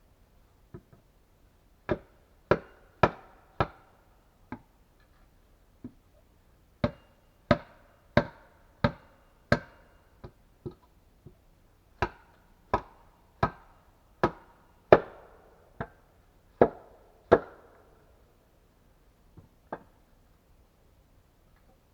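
Repeated sharp blows of a tool striking wood, in runs of four to six about two-thirds of a second apart, with a few lighter taps between runs.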